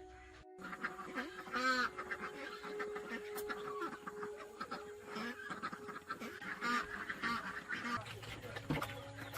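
Repeated short honking calls, goose-like, over a steady hum.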